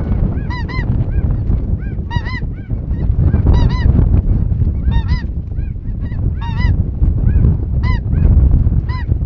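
Geese calling in short, high, arching honks, coming in quick clusters again and again, over a heavy low rumble of wind on the microphone.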